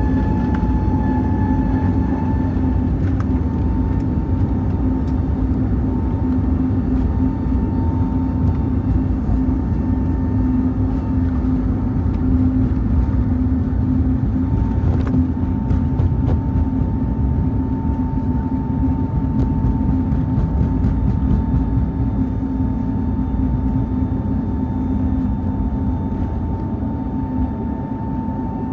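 Cabin noise of an Airbus A320 airliner with its jet engines running: a steady rumble overlaid by two steady whining tones, one low and one higher.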